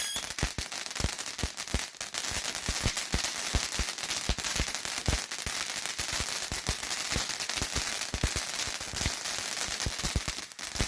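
Firework fountain (Sky Bacon Sour Candy Blueberry) burning: dense, irregular crackling over a steady hiss.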